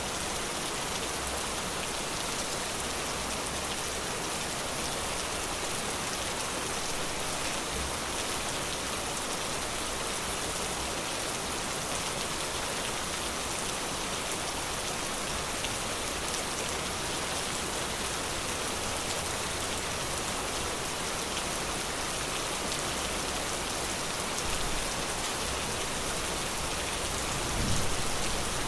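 Steady rain falling, an even hiss of many drops, with a low rumble swelling up near the end.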